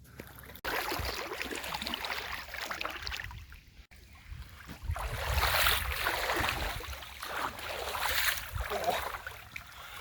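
Water splashing and sloshing around legs as someone wades across a shallow river.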